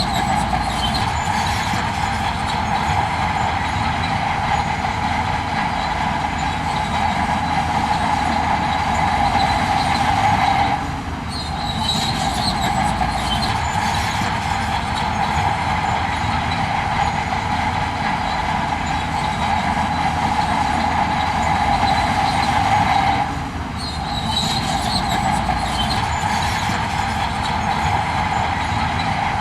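Heavy earthmoving machinery working: a steady low engine drone under a continuous high metallic squeal, with two brief drops in level.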